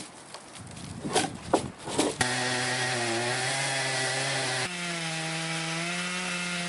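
A few knocks, then an electric power saw starts about two seconds in and runs steadily as it cuts wood. Its motor tone steps up in pitch suddenly about two-thirds of the way through.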